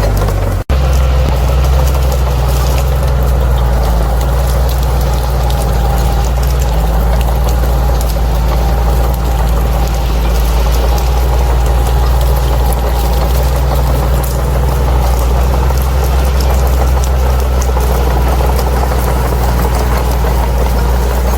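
Bulldozer's diesel engine running steadily with a deep rumble, cut by a split-second dropout just under a second in.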